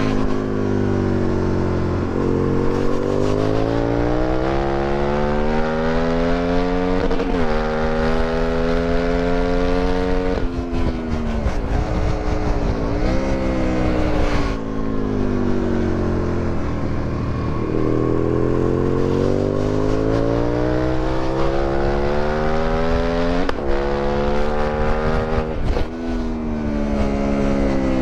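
2008 Aprilia Tuono 1000R's V-twin with an Akrapovic exhaust, accelerating hard through the gears. The pitch climbs steadily and drops sharply at each upshift, several times. In the middle there is a choppy stretch of falling and jumping revs, typical of braking and downshifting, under a steady rush of wind.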